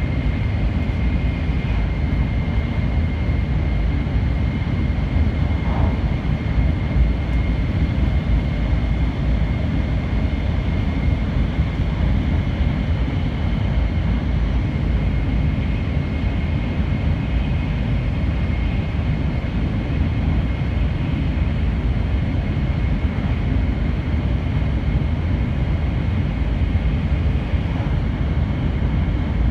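Running noise of an N700 series 8000 Shinkansen heard from inside the passenger car at speed: a steady low rumble with a thin, constant high tone over it.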